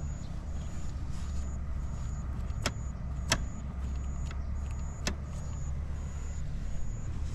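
Honda Motocompo's small 49cc two-stroke single running steadily at idle, with no abnormal noise, and three sharp clicks partway through.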